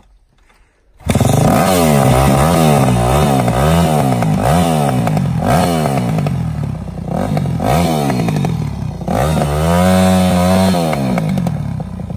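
Dirt bike engine, loud from about a second in, revved hard up and down over and over, with one longer high rev near the end, as the rider tries to power the bike out of soft sand.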